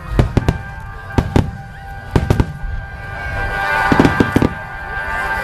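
Aerial firework shells bursting in a rapid series of sharp bangs, coming in clusters of two or three, with sustained music playing underneath.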